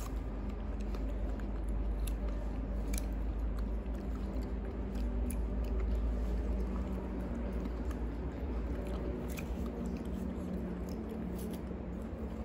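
Chewing and biting into pieces of soft fruit, with a few faint clicks, over a steady low rumble.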